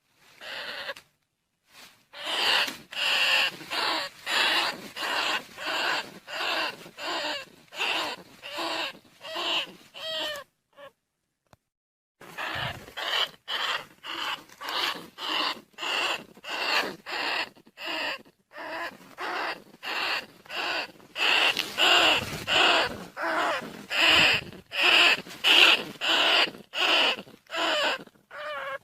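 Lure recording of rats' squeaking calls for rice-field rats and bandicoot rats: short, noisy squeaks repeated about one and a half times a second. They break off for about two seconds near the middle and then resume.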